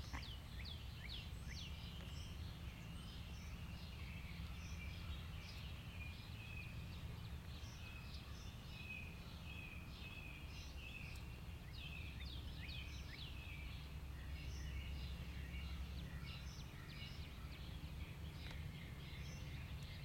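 Birds chirping: many short falling chirps over a faint steady high tone, above a low steady rumble of background noise.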